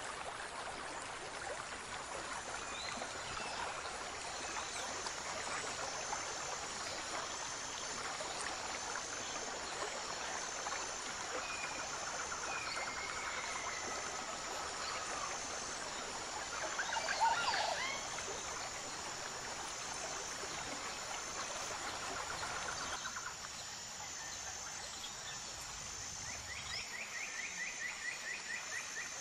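Natural ambience of wildlife calls over a steady hiss: scattered short chirps and calls, a louder burst of gliding calls about two-thirds of the way through, and a fast trill near the end.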